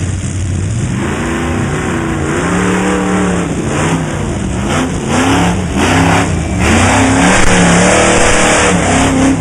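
Truck engine revving hard, its pitch climbing and dropping over and over, louder in the second half.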